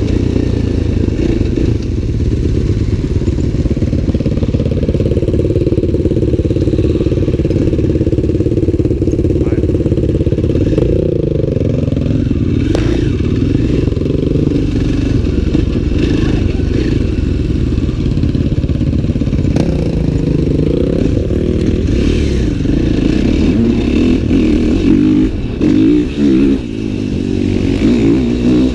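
Dirt bike engine running under way, its pitch rising and falling as the throttle is opened and closed, with quick revs near the end.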